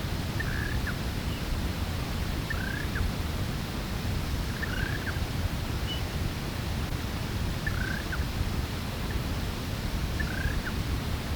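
Black-winged ground dove calling: a short falling note repeated about every two seconds, five times, over a steady low rumble.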